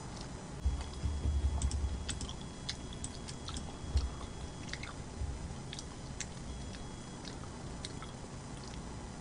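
Close-miked chewing of food, with many small wet mouth clicks and smacks. The chewing is heavier in the first two seconds and again about four seconds in.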